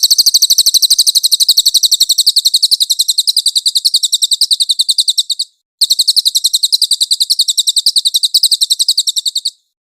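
Cililin bird song: a fast, evenly repeated run of high, clear notes in two bouts, the first breaking off about five and a half seconds in and the second stopping abruptly near the end.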